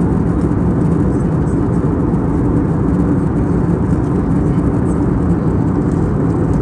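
Steady cabin noise inside an Airbus A320neo airliner in flight: a constant low rumble of engines and rushing air.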